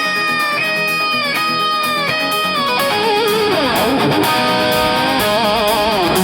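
Rock music: an electric guitar holds sustained notes that bend in pitch, then turn to a wavering vibrato near the end, with the drums and bass dropped out until the full band comes back in.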